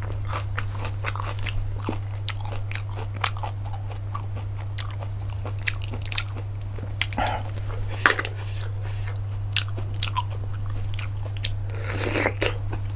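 A person eating cockles: chewing and mouth sounds with many short, sharp clicks, and a louder noisy smear near the end, over a steady low hum.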